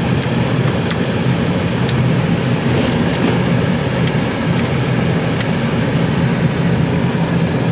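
Steady hum inside a 2006 Lincoln Town Car's cabin, from the idling engine and the climate-control blower running with the AC on recirculation, with a few faint clicks.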